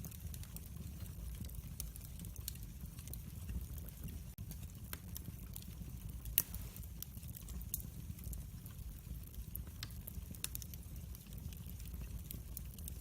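Wood fire in a fireplace crackling: scattered sharp pops and snaps over a steady low rumble of flames, with one louder pop a little past halfway.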